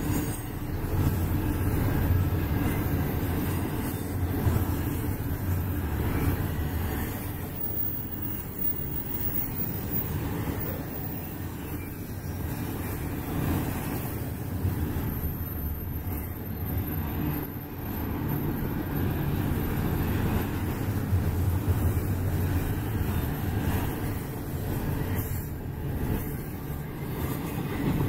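Double-stack intermodal well cars rolling past at speed: a steady low rumble of steel wheels on rail that swells and eases as the cars go by.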